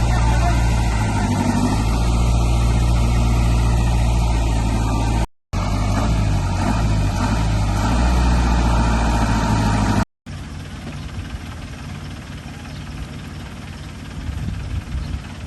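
Heavy construction machinery's diesel engine running steadily. It cuts out abruptly twice, and after the second cut it comes back quieter and rougher.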